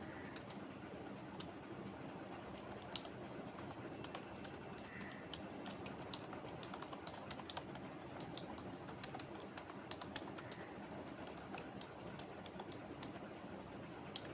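Typing on a computer keyboard: quick, irregular keystrokes, some bursts close together, over a steady low background noise.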